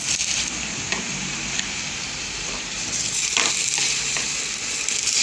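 Steady sizzle of food frying on the stovetop, with a few light knocks as tomato halves and dried chiles are set down on the griddle.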